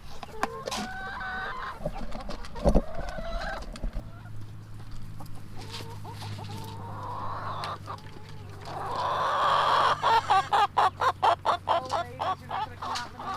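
Backyard chickens clucking and calling, with a long loud call about nine seconds in, followed by a fast run of clucks at about four a second. A low steady hum sets in about four seconds in.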